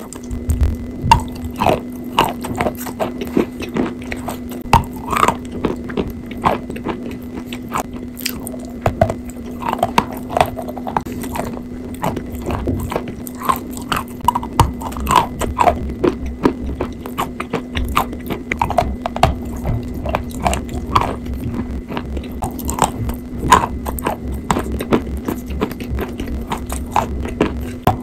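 Chalk being chewed: continuous irregular crunching and crackling as pieces of chalk break up between the teeth, with wet mouth sounds from the chalk paste. A steady low hum runs underneath.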